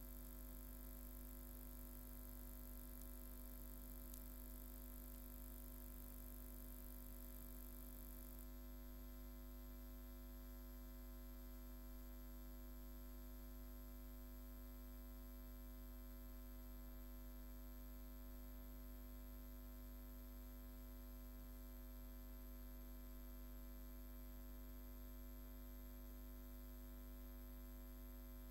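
Steady low electrical mains hum with a faint hiss and no other sound, at the edge of near silence.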